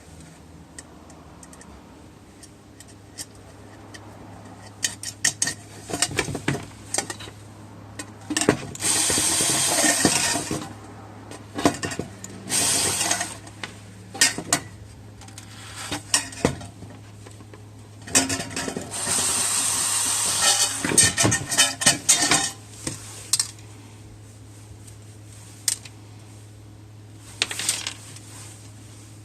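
Metal clinking and knocking as the parts of a small homemade metal stove are handled, with three longer scraping noises of a second or two each.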